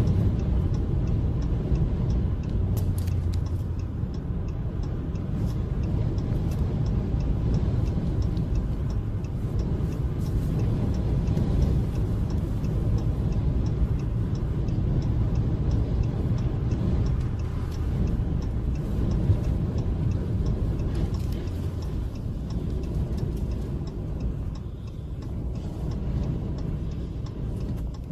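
Very strong wind with a steady low rumble, over a regular light ticking.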